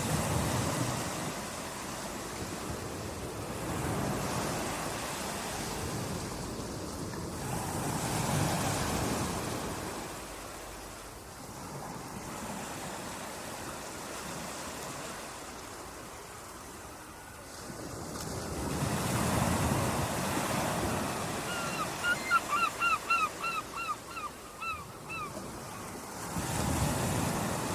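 Sea waves washing onto a beach, the surf swelling and easing every few seconds. Near the end a bird calls a quick run of about a dozen short, falling notes.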